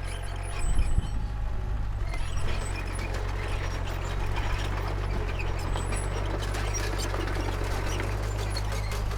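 Diesel engine of a Komatsu D31P crawler bulldozer running steadily at work, with a continual rattling and clanking over it and a louder knock about a second in.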